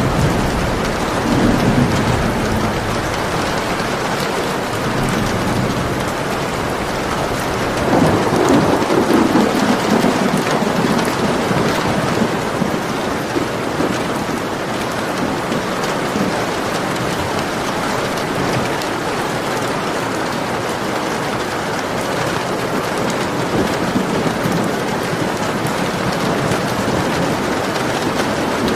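Steady rain with rolling thunder: a low rumble about a second in, and a louder, longer one about eight seconds in.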